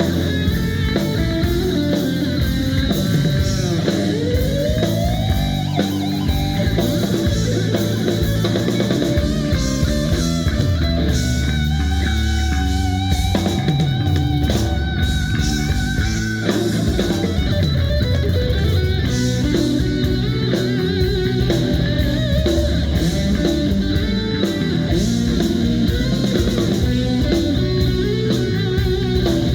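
Live rock band playing: electric guitar lead over drum kit and bass, with a gliding guitar bend about four seconds in.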